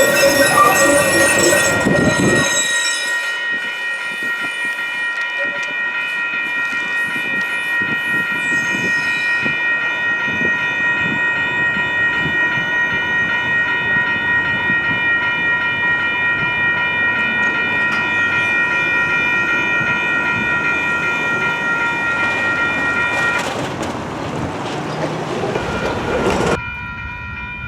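Light rail train at a grade crossing: a horn sounds for the first couple of seconds, then the train runs by with a steady rumble of wheels on rail under high, steady ringing tones, and the noise drops off suddenly near the end.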